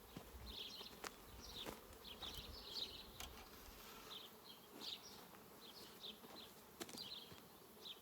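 Honeybees buzzing faintly around an open hive, agitated after being moved, with a few light clicks from the hive's feeder or lid being handled.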